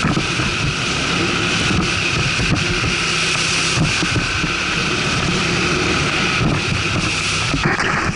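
ATV engine running steadily, with wind noise rushing over the microphone.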